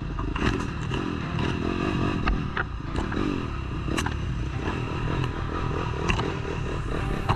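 Dirt bike engine running on a trail ride, its pitch rising and falling with the throttle, with scattered knocks and clatters from the rough ground.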